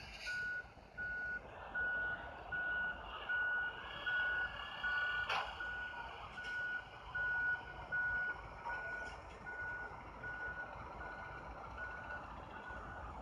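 A waste-collection truck's back-up alarm beeping steadily in one tone, about four beeps every three seconds, as the truck reverses. A sharp clack sounds once about five seconds in.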